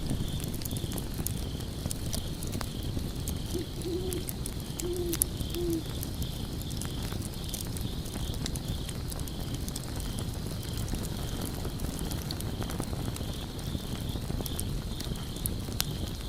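Log fire crackling and popping over a low rumble of flames. About four seconds in, an owl hoots three times in quick succession. A faint high chirping pulses steadily throughout.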